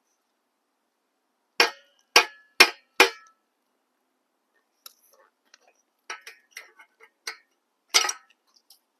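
Small metal parts clinking: four sharp clinks about a second and a half in, then lighter scattered clinks and one more sharp one near the end.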